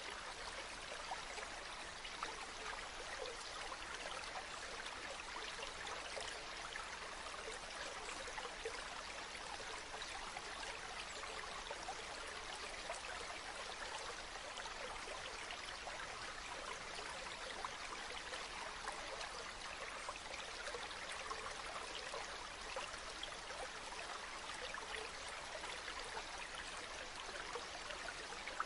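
Shallow river or stream murmuring over stones, a steady even rush of water with no change in its flow.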